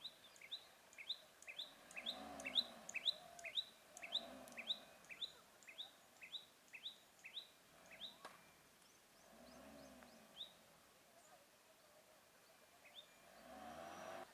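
A bird calling over and over: a short rising chirp about twice a second for the first eight seconds or so, then only now and then. A faint low hum rises and falls a few times underneath.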